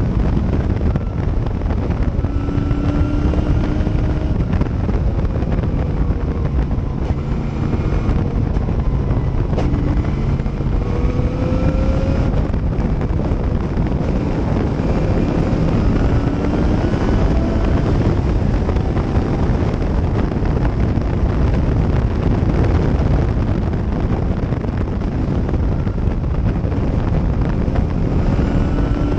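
Gentry Cobra race car's engine running hard at race pace, its pitch climbing through each gear and dropping back again and again as it shifts and brakes, heard from the open cockpit with wind buffeting the microphone.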